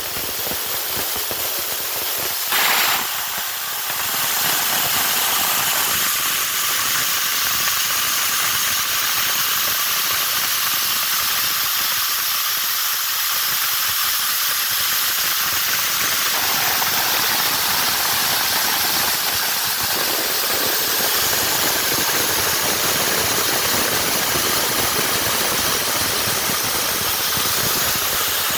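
CNC plasma cutter cutting sheet steel: a steady, loud hiss of the plasma arc and compressed air, with a brief louder burst about three seconds in.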